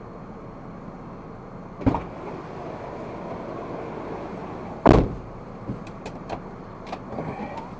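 Steady hum of a moving car heard from inside the cabin, broken by two sharp knocks about three seconds apart, the second the louder, and a few lighter clicks near the end.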